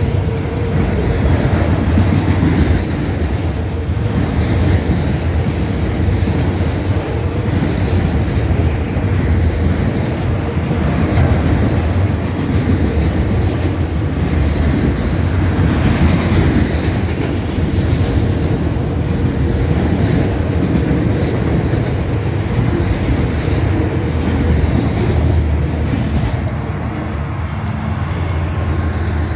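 Empty autorack freight cars rolling past, a steady loud rumble of steel wheels on rail with clickety-clack over the rail joints, easing off slightly near the end.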